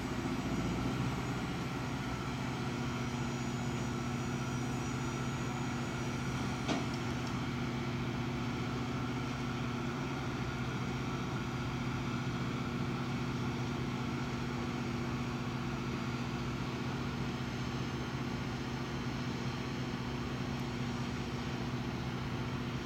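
The Tokai Kisen jetfoil Seven Island Yume's gas turbines running steadily, a low hum with a high whine on top. The highest part of the whine fades out about seven seconds in, and there is a single short click at about the same time.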